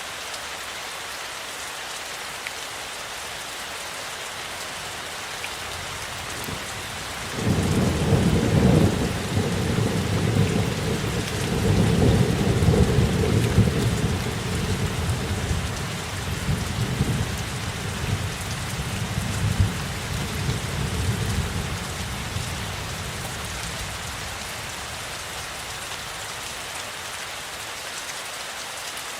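Steady rainfall hissing, with a long low rumble of thunder that starts suddenly about a quarter of the way in. It rolls on in swells for about fifteen seconds, then fades back into the rain.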